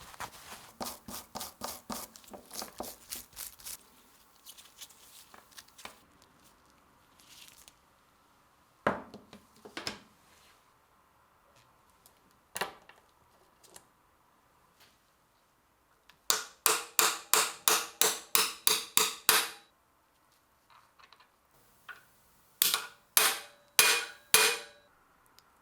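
Three runs of sharp, evenly spaced clicks, about three to four a second, from hand work on the drill's parts, with a few single knocks between the runs. The middle run, about sixteen seconds in, is the loudest.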